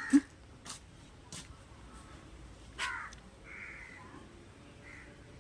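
Harsh, crow-like bird calls repeated a few seconds apart, with a sharp knock just after the start and a few fainter clicks in the first second and a half.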